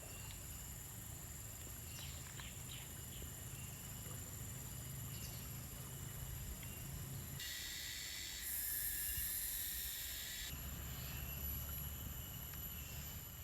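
Rainforest ambience: insects droning steadily at a high pitch, with a few faint clicks. A louder hiss comes in suddenly about seven seconds in and stops abruptly about three seconds later.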